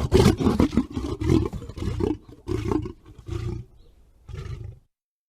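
Tiger growling in a rapid series of short pulses, several a second, growing fainter and stopping near the end.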